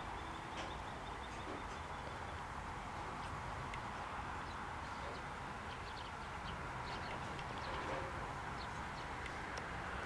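Outdoor ambience: a steady background hum with faint, short high chirps scattered through it.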